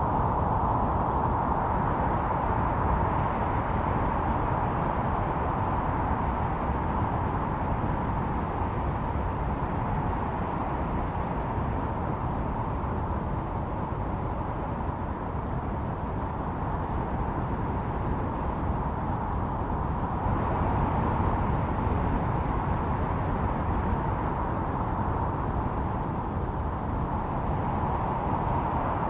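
Snowstorm wind howling steadily, easing a little midway and swelling again later.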